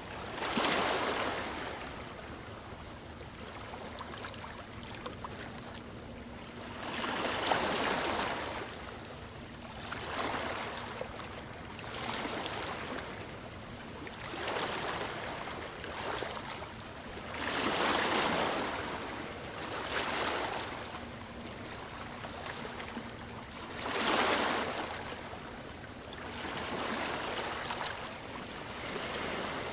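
Sea waves breaking and washing up a shore: about nine swells of surf, each rising to a hiss and drawing back, a few seconds apart and at uneven intervals.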